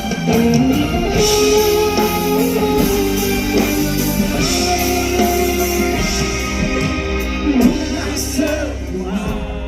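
Live band playing a pop-rock song, with some singing over the instruments.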